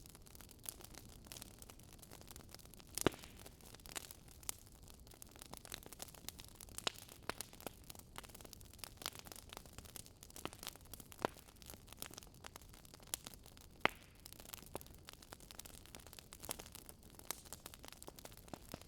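Wood fire crackling: irregular sharp pops and snaps over a soft hiss, with louder pops about three seconds in and again about fourteen seconds in.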